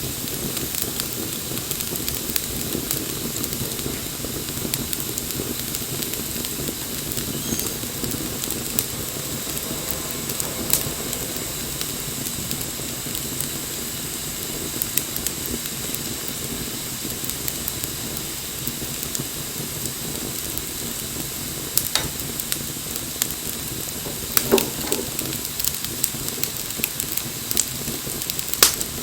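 Wood fire burning with a steady hiss and scattered crackles, and a few louder pops in the last third.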